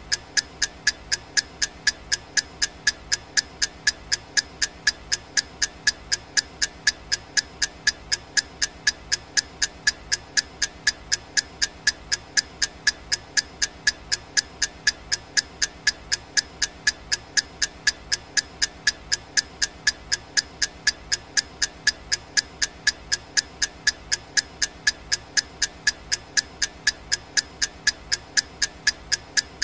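Clock ticking sound effect: sharp, evenly spaced ticks at a steady rate, marking off the seconds of a countdown timer.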